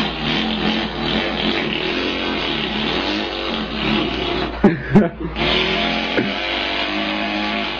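A man imitating an engine with his voice: a continuous buzzing drone, broken briefly about five seconds in.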